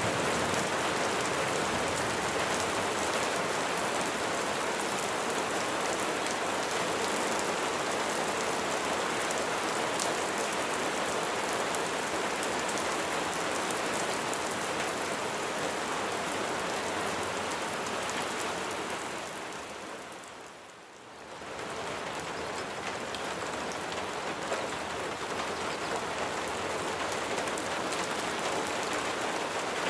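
Steady rain falling, an even hiss. About two-thirds of the way through it briefly fades down and then swells back to the same level.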